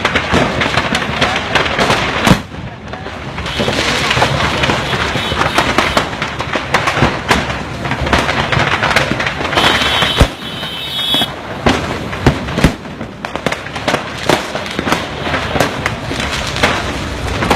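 A load of firecrackers exploding in a burning van: a dense, continuous crackle of pops and bangs. There are louder single bangs about two seconds in and about ten seconds in, and a brief high whistle around the ten-second mark.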